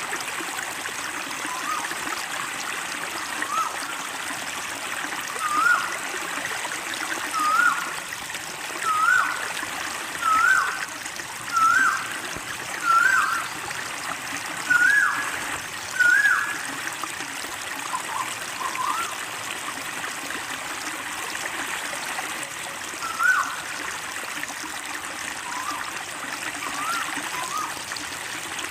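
Short rising call notes of a tuwu bird, repeated about once every one and a half seconds for a dozen or so calls, then a few scattered ones near the end, over a steady stream of running water.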